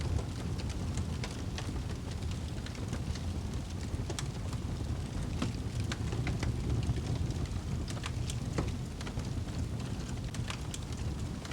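Fireplace fire crackling: scattered sharp pops and snaps over a steady low rumble of the flames.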